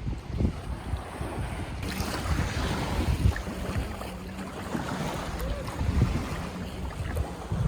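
Sea waves washing in, with wind buffeting the microphone; the surf hiss grows fuller about two seconds in.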